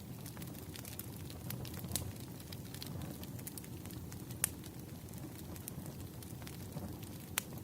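Wood fire crackling: a steady low rumble of burning logs with scattered sharp pops, the loudest about four and a half seconds in and another near the end.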